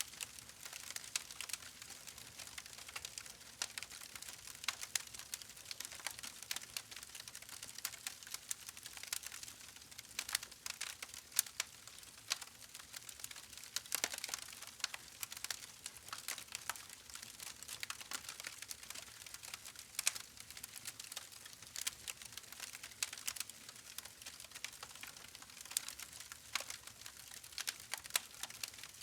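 Campfire crackling: a steady, irregular stream of small sharp pops and snaps over a soft hiss, with a couple of louder snaps about halfway and two-thirds of the way through.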